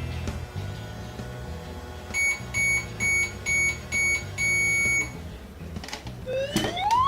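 Toy microwave beeping: five short, evenly spaced beeps about half a second apart, then one longer beep, the signal that its cooking cycle has finished. Light background music plays underneath.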